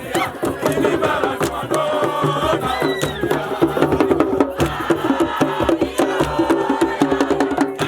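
A group of voices chanting and singing together over a steady percussive beat.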